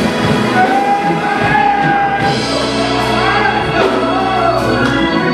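Gospel church music: held organ chords with a singing voice gliding over them, in a large hall.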